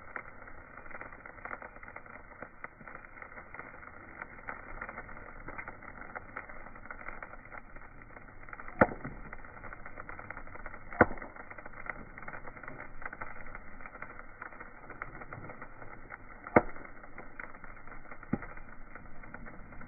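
Bonfire of wood and tumbleweed crackling steadily, with four sharp pops in the second half.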